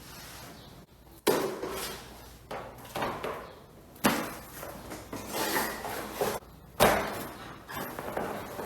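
Three sharp knocks or bangs, about a second, four seconds and seven seconds in, with lighter knocking and clatter between them.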